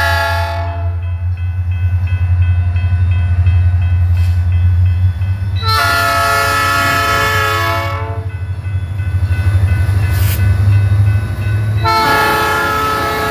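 Diesel freight locomotive's multi-note air horn sounding in three blasts: one ending about half a second in, a roughly two-second blast about six seconds in, and another starting near the end. Under it runs the steady low rumble of the locomotive's diesel engine.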